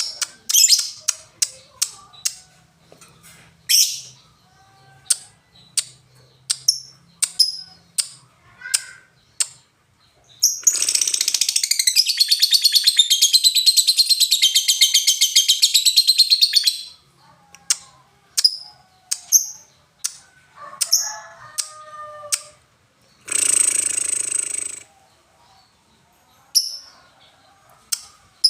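A lovebird giving short, sharp ticking chirps, then breaking into a fast, continuous rattling trill of about six seconds: the long 'ngekek' song prized by lovebird keepers. It then returns to scattered chirps, with a shorter dense burst of song a few seconds before the end.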